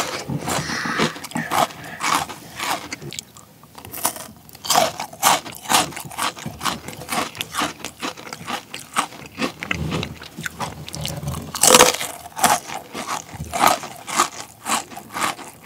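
Close-miked chewing of a chocolate-coated Pepero biscuit stick with sprinkles: a fast run of crisp crunches, about three a second, as the biscuit is bitten and chewed.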